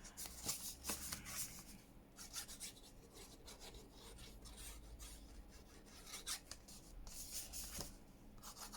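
Faint rustling and rubbing of paper and card being handled, with a few light taps, as the pages, pockets and tags of a handmade paper junk journal are shifted and sorted.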